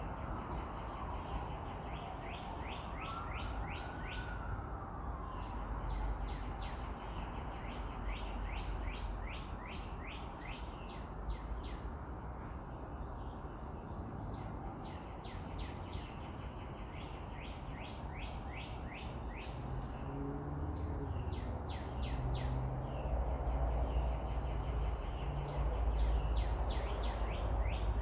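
A bird singing in repeated quick series of short rising chirps, over the steady low rumble of road and engine noise heard from inside a moving car; the engine hum grows louder near the end.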